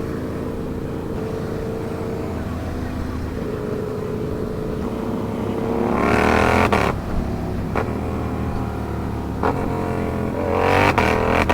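Sportbike engine cruising steadily, then twice pulling hard with the revs climbing. Each pull is broken by short sharp cuts, typical of quickshifted upshifts.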